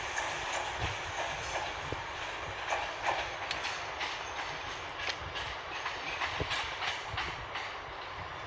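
Locomotive-hauled passenger train of Class 90 electric 90004 and driving van trailer 82152 moving along the track, with a steady rumble and many irregular clicks and clatters from its wheels over rail joints.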